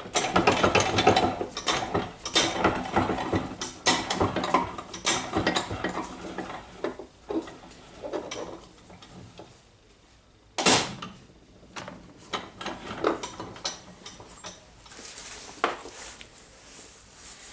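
Metal parts clinking, clicking and scraping in a bench vise as a spring ring is pressed into its groove in the Makita DHR202 rotary hammer's mechanism. Busy for the first several seconds, then sparser, with one sharp metallic knock about ten and a half seconds in.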